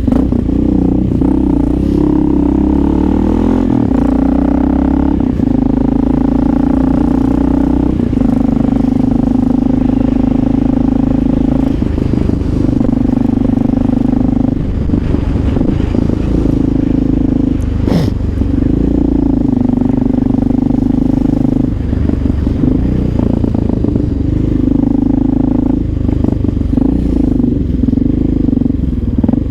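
Honda XR650L's air-cooled single-cylinder four-stroke engine running while riding, its pitch rising and dropping as the throttle opens and closes through gear changes. There is one sharp click about 18 seconds in.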